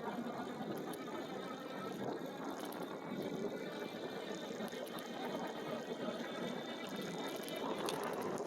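E-bike riding along: a steady rush of tyre and wind noise with a faint thin whine from the electric motor, and a few sharp clicks near the end.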